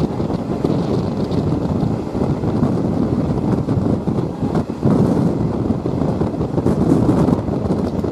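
Steady running noise of a moving train heard from on board, with wind buffeting the microphone.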